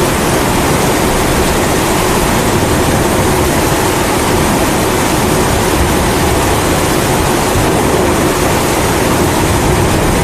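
Steady roar of a pressurized kerosene (Primus-type) stove burner blended with falling rain, an unbroken even rush with a deep rumble underneath.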